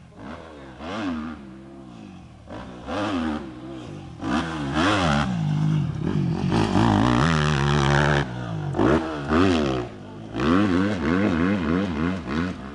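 Motocross motorcycle engines revving hard and falling off again and again as the rider works the throttle, in short bursts at first and then loud and near-continuous through the middle.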